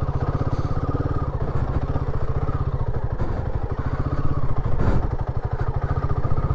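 Royal Enfield Himalayan 450's single-cylinder engine running at low, steady revs, its firing pulses even and regular. A brief knock cuts through about five seconds in.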